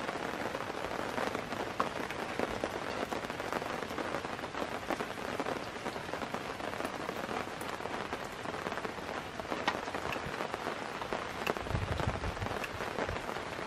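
Egg pancake sizzling on a hot griddle pan, a steady fine crackle, with a few low knocks about twelve seconds in.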